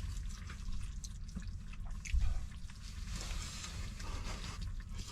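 Close-up eating sounds: wet chewing and small mouth clicks over soft braised eggplant and pork, with one dull knock about two seconds in.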